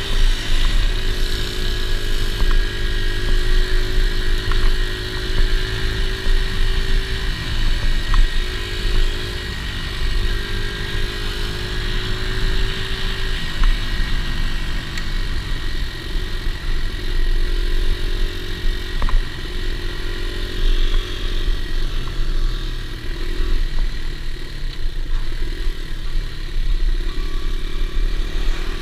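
Dirt bike engine running, its pitch stepping up and down with the throttle, over a heavy low rumble.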